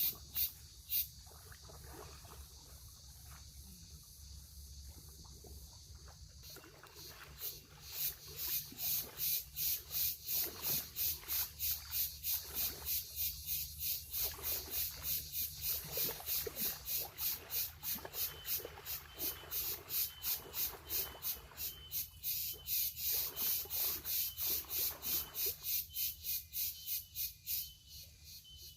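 Insects chirping in a steady rhythm, about three high-pitched pulses a second, growing louder about six seconds in.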